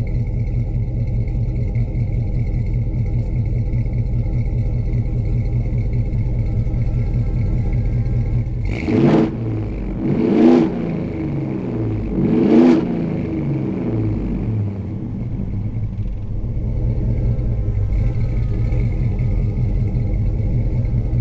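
Ford 7.3L Godzilla gasoline V8 in a 2020 F-250 Super Duty, breathing through long-tube headers and a 3-inch dual exhaust with an H-pipe and two Flowmaster mufflers, idling with a deep rumble. Near the middle it is blipped three times in quick succession, each rev rising and falling back to idle.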